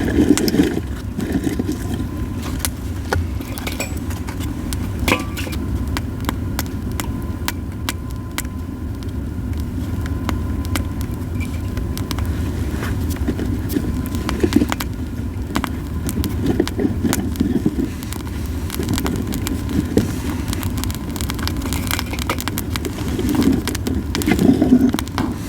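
Yew-wood campfire crackling, with many short sharp pops scattered over a steady low rumble.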